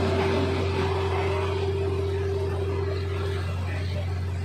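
Diesel multiple-unit railcar running along the line: a steady low engine drone over the rumble of wheels on rail, with a steady whine that fades out about three and a half seconds in.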